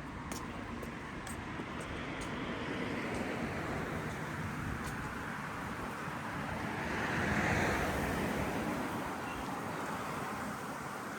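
A car passing by on the street, its tyre and engine noise swelling to a peak about seven seconds in and then fading, over a steady hum of traffic.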